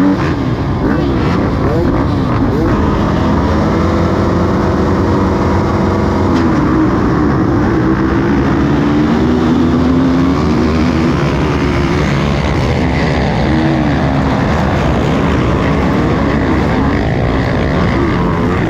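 Motocross bike engines revving, their pitch rising and falling again and again, over a heavy low rumble.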